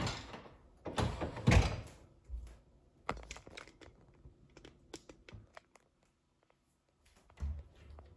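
Objects being handled: two or three heavy thumps with a rustle in the first two seconds, then a run of small sharp clicks and knocks, a short pause, and one more thud near the end.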